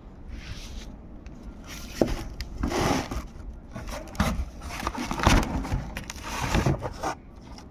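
Handling noises from a new clutch plate being turned over and shown: irregular scraping and rubbing, with a few sharp knocks.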